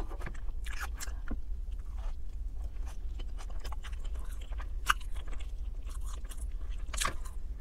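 Close-miked chewing of roasted chicken, with wet mouth sounds and scattered sharp clicks, and a fork working against a plate. A low steady hum runs underneath.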